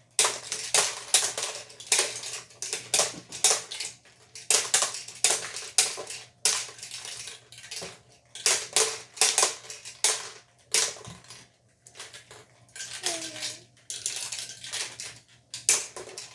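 Irregular clattering of small hard plastic toy pieces and balls knocking and rattling together: a dense run of clicks and knocks with a few short pauses.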